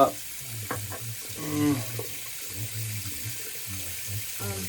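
Water running from a sink tap, a steady rush.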